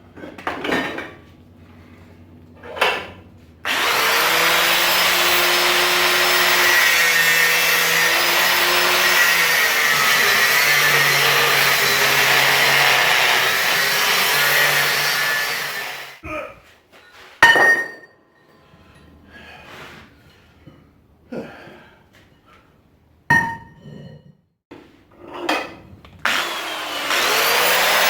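Loud, steady mechanical noise from a workshop power tool or machine, starting abruptly and running about twelve seconds before fading out. It is followed by a few sharp metallic strikes with a short ring, like a hammer on steel, and the machine noise starts again near the end.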